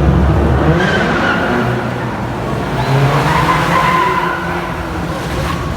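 Car tires squealing over a low engine rumble, the squeal wavering in pitch and loudest a little after the middle.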